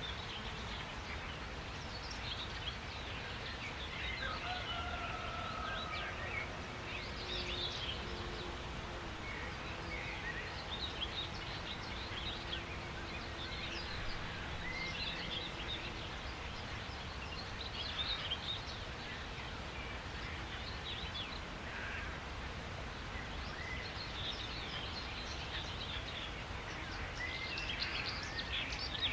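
Birds chirping in many short, scattered calls over a steady low background rumble.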